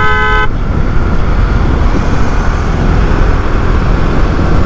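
Steady highway riding noise from a Bajaj Dominar 250 motorcycle under way, with wind and road roar. A vehicle horn sounds a few short toots that stop about half a second in.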